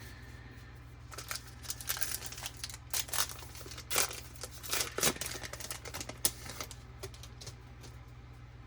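A baseball card pack's wrapper being torn open and crinkled by hand, in irregular crackles for several seconds before stopping, over a low steady hum.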